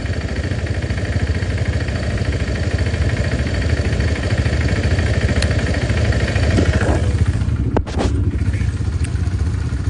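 Motorcycle engine running steadily while riding, a low rumble under rushing road noise, with one sharp click about eight seconds in.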